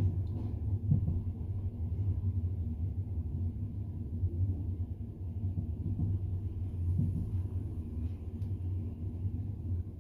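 Double-decker passenger train running along the track, heard from inside the carriage: a steady low rumble from the wheels and running gear, with a few soft knocks.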